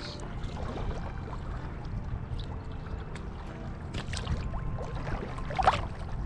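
Sea kayak paddling: paddle blades splashing into the water over a steady low rush. The sharpest splash comes about five and a half seconds in.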